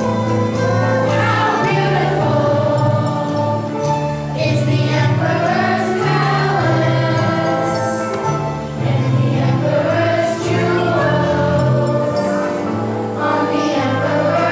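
Background music with a choir singing over a sustained accompaniment.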